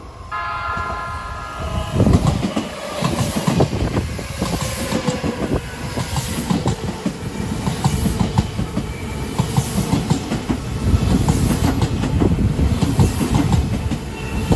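Odakyu 3000-series electric commuter train sounds its horn once, a steady chord of about a second and a half, as it approaches. It then runs close past with a rapid, loud clatter of wheels over the rail joints and a heavy rumble.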